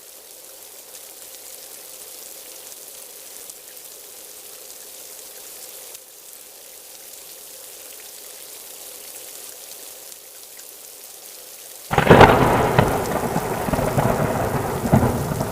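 Steady rain falling, then about twelve seconds in a sudden loud thunderclap that rumbles on with further cracks to the end.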